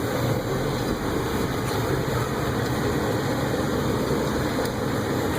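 Steady drone of a 1988 Toyota pickup's 22R-E four-cylinder fuel-injected engine with road noise, heard from inside the cab as the truck is driven.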